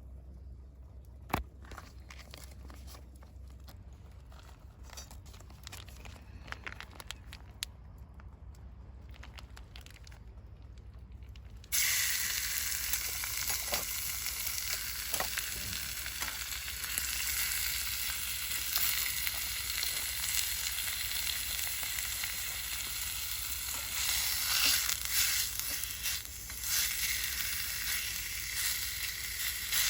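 Scattered small clicks and knocks, then, about twelve seconds in, food suddenly starts sizzling in a hot pan and keeps frying steadily.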